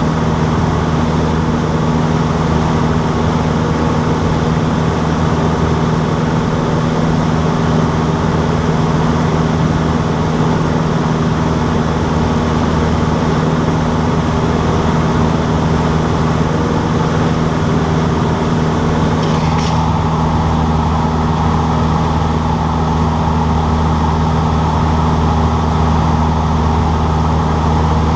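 Cessna 152's four-cylinder Lycoming piston engine and propeller running at a constant pitch, giving a loud, steady drone with no change in power.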